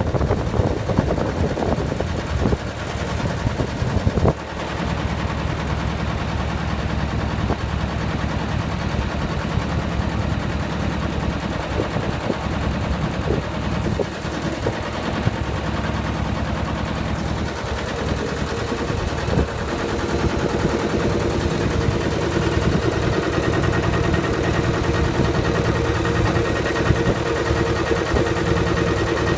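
Massey Ferguson 210 tractor's two-cylinder diesel engine running steadily, with a rapid, even train of firing pulses; its sound shifts slightly about two-thirds of the way through.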